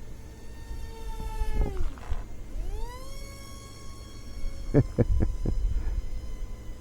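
Electric motor and propeller of a Ranger Stunt 600 RC plane whining in flight. The pitch drops sharply as the throttle is cut, then rises again as it is opened and holds steady. Wind rumbles on the microphone, with a few short thumps of gusts about two-thirds through.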